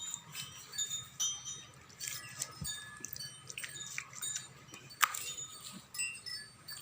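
Chimes tinkling: many short, high ringing notes at scattered pitches, with one sharp click about five seconds in.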